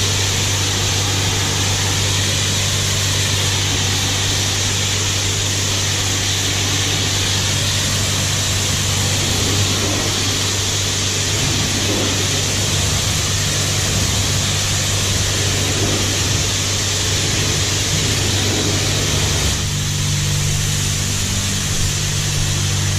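Self-serve car wash high-pressure wand spraying soap onto a car: a steady, loud hiss of water over a low, steady hum.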